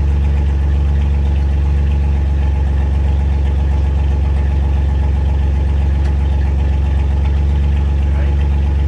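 Vehicle engine idling steadily with an even low hum, holding a constant pitch.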